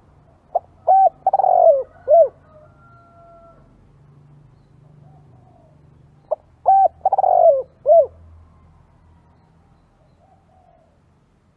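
Spotted dove cooing: two calls about six seconds apart, each a few short coos around one longer rolling coo.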